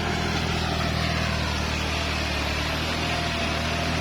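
Kubota tractor's diesel engine running steadily, pulling a rotary tiller through the field.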